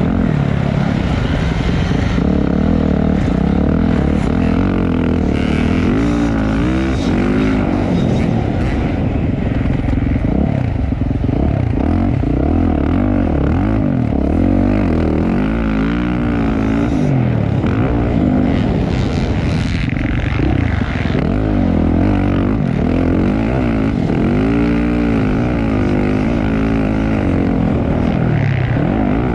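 Motocross dirt bike engines running hard in a race, revving up and falling off again and again as the riders work the throttle.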